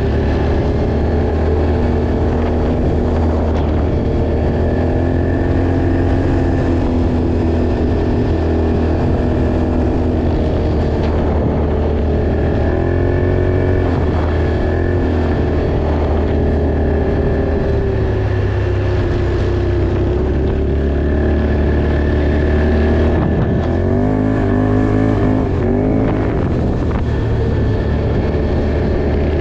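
Off-road vehicle engine running under load, its pitch holding steady and then rising and falling twice as the throttle changes, over a heavy low rumble.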